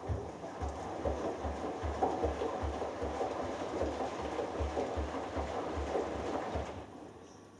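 Hoover Dynamic Next front-loading washing machine drum turning during the wash phase of a delicates cycle. Water and laundry slosh over a low rhythmic thud of about two or three a second, and the drum stops abruptly after about seven seconds.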